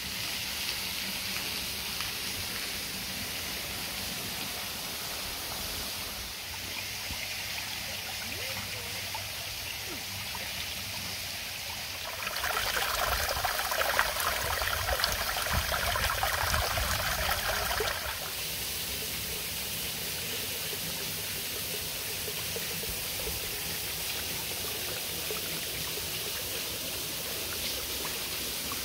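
Red Cedar Falls waterfall running: a steady rush of falling water, louder for about six seconds in the middle.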